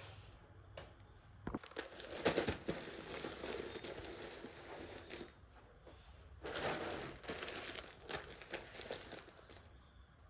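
Crinkling and rustling of handled material, in two stretches with a few sharp clicks.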